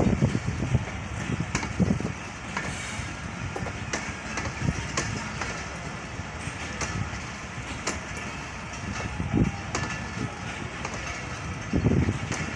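Passenger train coaches rolling slowly along the track: a steady rumble with irregular sharp clicks of wheels passing over rail joints, and heavier low rumbles at the start and again near the end.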